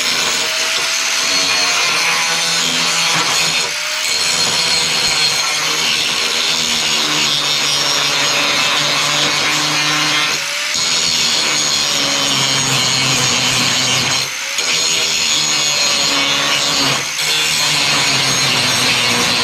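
Steel being worked with a welder or grinder: a loud, harsh, continuous rasping noise with a steady hum underneath, broken four times by short pauses.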